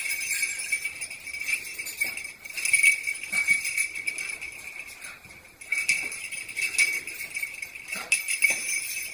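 Small jingle bells jingling: a continuous metallic ringing, shaken unevenly.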